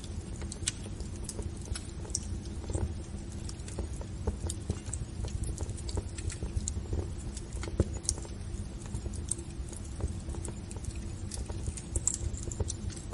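Wood fire burning in a fireplace: a steady low rumble of flames with irregular sharp pops and crackles of the burning logs.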